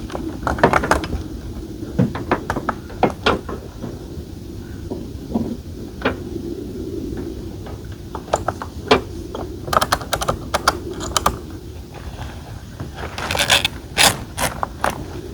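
Irregular clicks, knocks and rattles of a roof-top tent and its fittings being handled and folded away, in quick clusters with a busy stretch near the end, over a steady low background noise.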